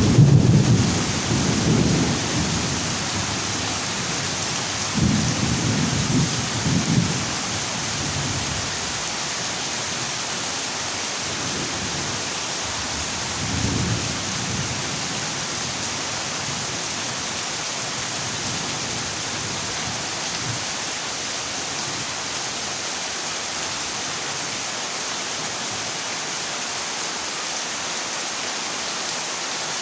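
Heavy rain on a corrugated zinc roof, a steady hiss, with a loud peal of thunder right at the start, more rumbling a few seconds later and a fainter roll about halfway through.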